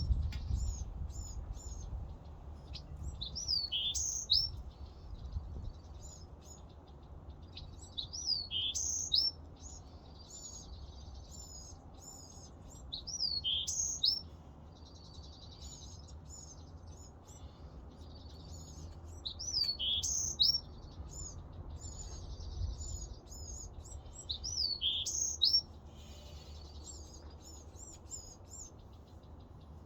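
Songbirds singing: one bird repeats a short phrase of quick rising and falling whistled notes about every five seconds, with other chirps in between. A faint low rumble runs underneath.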